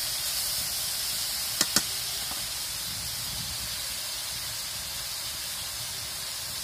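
Shredded vegetables sizzling in hot oil in a black iron karahi over a wood fire: a steady hiss, with two quick sharp taps about a second and a half in.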